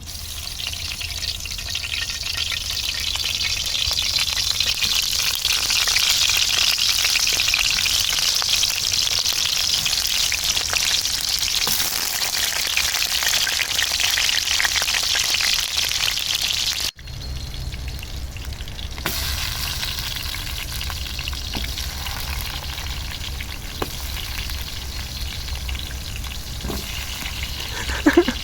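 Food sizzling over a campfire with a steady, dense hiss. About two-thirds of the way in, the sound cuts abruptly to a quieter stretch of sizzling with a low rumble underneath.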